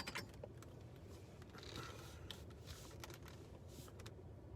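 Quiet room tone with a few faint, soft clicks scattered through it.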